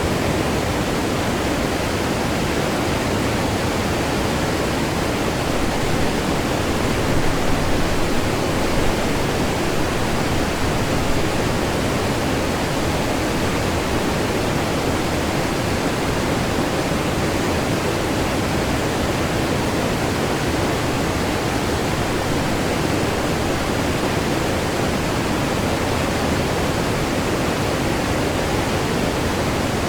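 Waterfall on a river, heard close up: water crashing down in a steady, dense roar, with a few brief louder surges about a third of the way through.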